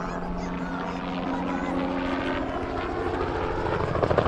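A helicopter flying by: steady engine and rotor hum that grows louder, with a rapid rotor blade chop starting near the end.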